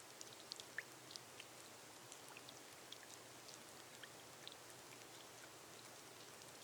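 Soft, steady rain on a glass roof: a faint even hiss with scattered single drops ticking on the glass, a few sharper taps in the first second or so.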